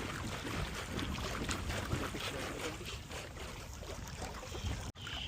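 Wind buffeting the microphone: a steady rush of noise with a low rumble, cut off abruptly near the end.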